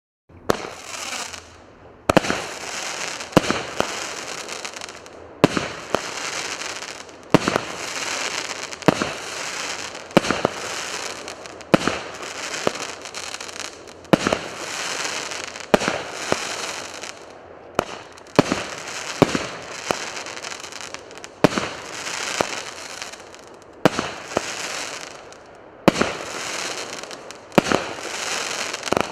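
A 19-shot, 1.2-inch consumer fireworks cake firing its shots one after another, about one every one and a half seconds. Each shot is a sharp bang followed by a second or two of hiss.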